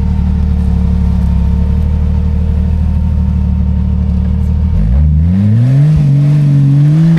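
Jeep Cherokee engine running low and steady, then revving up about two-thirds of the way in and held at higher revs with the pitch wavering, as the Jeep strains on the obstacle and hangs up on its belly.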